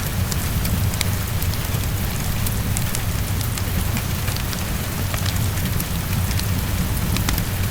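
Heavy rain falling steadily against a window, with a low rumble underneath and scattered sharp crackles from a fireplace.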